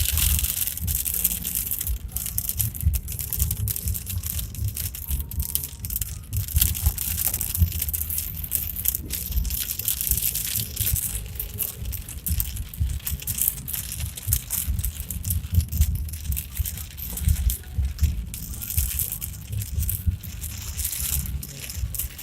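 Car interior noise while driving on a rough road: a low rumble under continual rattling, crunching and knocking.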